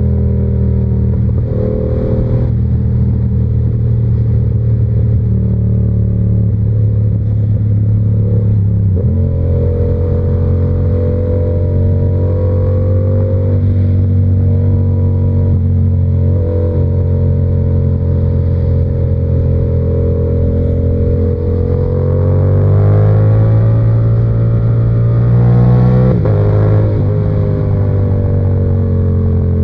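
Yamaha R7's 689 cc parallel-twin engine with an SC-Project exhaust, running under way at steady revs. The engine note shifts about nine seconds in, climbs as the bike accelerates a little past twenty seconds, then drops with a gear change near the end.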